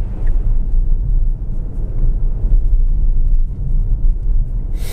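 Steady low road and tyre rumble inside the cabin of a Tesla Model S dual-motor electric car, driving on snow tyres over a snowy road.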